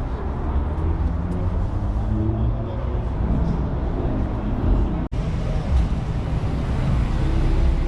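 Steady low rumble of car engines running, with faint voices in the background. The sound cuts out for an instant about five seconds in.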